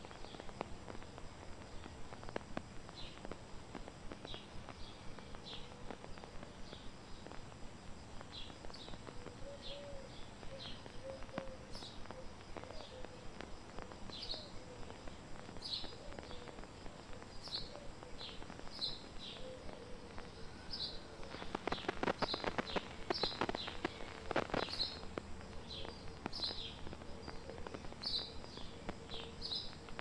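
A small bird giving short, high chirps about once a second, coming more often in the second half, over a faint outdoor background. A burst of crackling about two-thirds of the way through is the loudest part.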